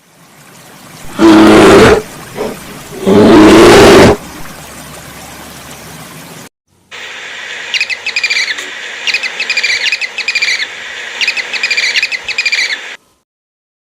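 Two loud, drawn-out animal calls, then after a short break about six seconds of quick, high, repeated bird chirps in clusters.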